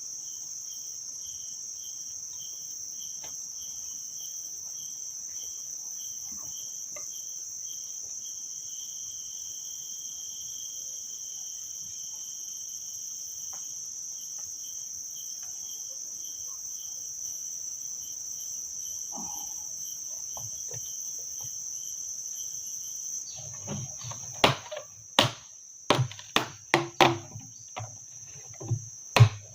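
Steady high-pitched chirring of crickets and other insects, one part pulsing rapidly. Near the end, a quick run of about a dozen loud, sharp knocks of wood being chopped.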